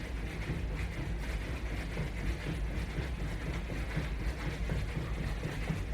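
Faint irregular footfalls and creaks of a person jogging in place against a resistance band, over a steady low hum.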